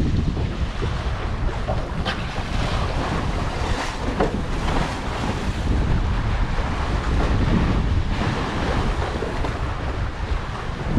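Wind buffeting the microphone over the rush and splash of sea water along the hull of a sailing yacht under way.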